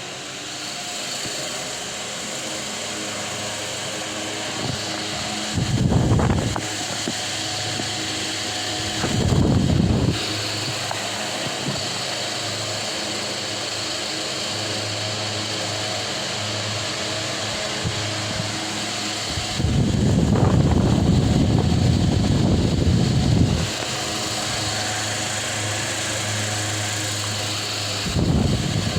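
Delta Gold electric fan running with a steady motor hum and rushing air, building up over the first couple of seconds. Several times its airflow buffets the microphone in low rumbles, the longest lasting about four seconds.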